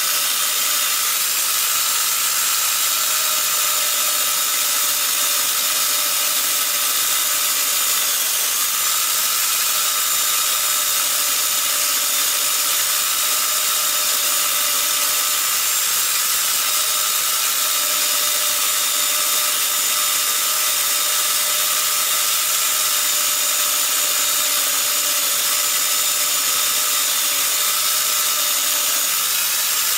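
A small motor running steadily under a loud hiss, its pitch dipping briefly about eight seconds in.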